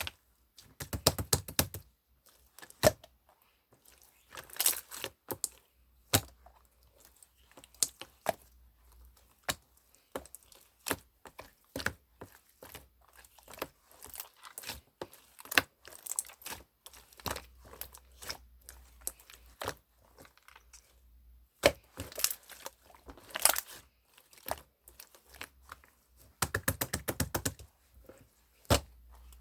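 Slime being poked, squeezed and stretched by hand, giving scattered sharp clicks and pops, with several bursts of rapid crackling.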